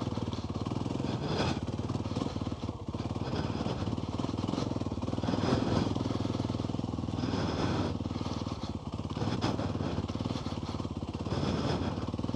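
Off-road motorbike engine running through deep mud, its revs rising and falling in repeated surges.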